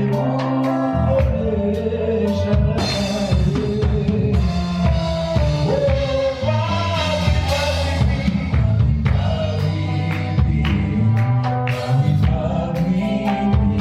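Live gospel worship music: a band with drum kit and bass guitar playing, with voices singing over it.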